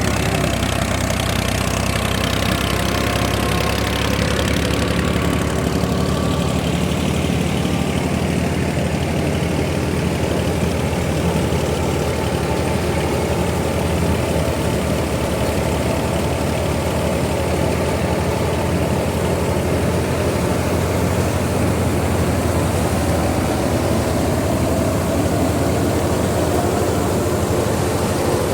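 Tractor engine running steadily under load, driving a wheat thresher, with the thresher's machinery running along with it.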